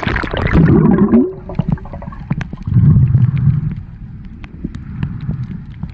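Sea water heard through a camera dipping under the surface: a splash, then muffled underwater gurgling with low rumbles about a second in and again about three seconds in, and scattered small clicks.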